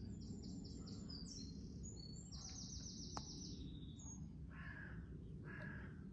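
A small songbird sings runs of high, quick notes and a rapid trill. Near the end, a crow caws twice. A steady low hum runs underneath.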